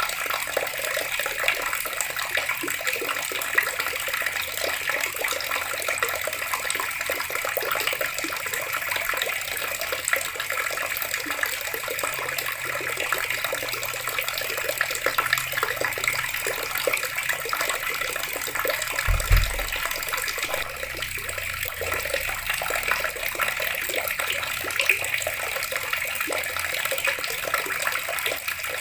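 Water tap running, a steady stream of water splashing. A brief low thump comes about two-thirds of the way in.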